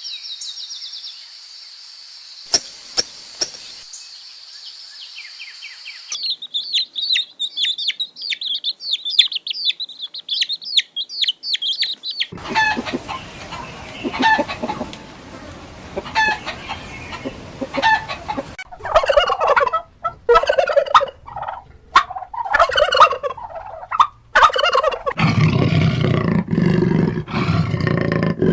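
Domestic poultry calling in a run of clips: high, thin peeping and chirping for the first stretch, then calls repeated about once a second, then louder clucking. Deeper, lower-pitched animal calls come in near the end.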